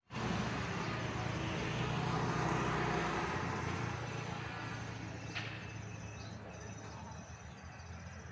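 A road vehicle's engine and tyres, loudest over the first three seconds or so and then fading away as it draws off. There is a single short tick about five seconds in.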